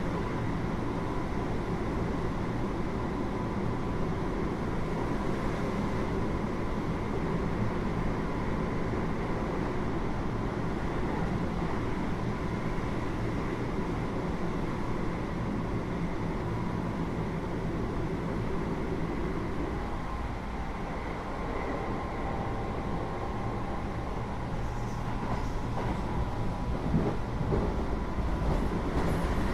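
Interior running sound of a Keio 8000 series electric train car, recorded above its Hitachi GTO-VVVF main controller: a steady rumble of wheels on rail with thin, steady whine tones. About twenty seconds in the tones shift and the sound briefly softens, then it grows louder again toward the end.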